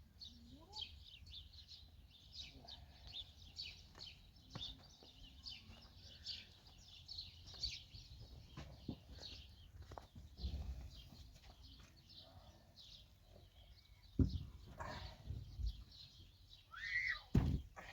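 Small birds chirping continuously, with scattered knocks and two louder thumps, about fourteen and seventeen seconds in.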